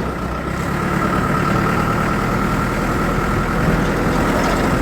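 Car engine and road noise heard from inside the cabin of a moving car, a steady low rumble with a constant high-pitched whine over it.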